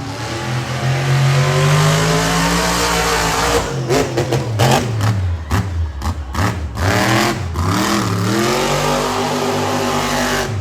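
Monster truck engine revving hard, its pitch climbing, then rising and falling with the throttle. A run of sharp bangs comes between about four and seven seconds in.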